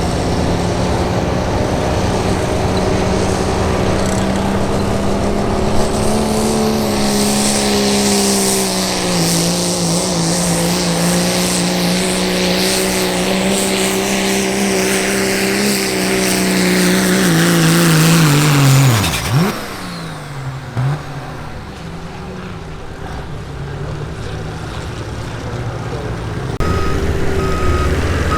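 Diesel pickup truck engine held at full throttle under load while pulling a sled, a steady loud run with a hiss over it. About nineteen seconds in, the revs fall away sharply as the pull ends and the engine drops to a lower rumble. Near the end a vehicle's reversing alarm starts beeping steadily.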